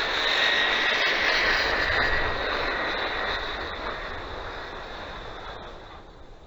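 Redcat Volcano RC truck on small on-road wheels running at speed: a high motor whine over tyre hiss that fades steadily as the truck moves away.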